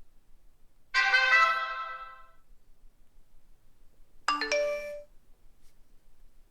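Two different phone alert tones, one after the other. The first is a bright chime about a second in that fades away over a second or so. The second, near four seconds, is a short run of three quick notes stepping upward.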